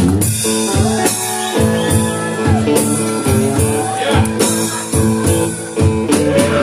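Live band music: guitar chords ringing over drum hits.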